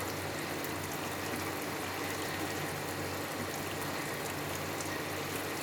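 Water running steadily into a twin-tub washing machine's wash tub as it fills.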